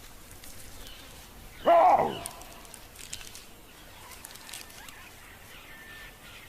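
One loud animal call about two seconds in, rising and then falling in pitch over about half a second, followed by faint scattered snaps and crackles.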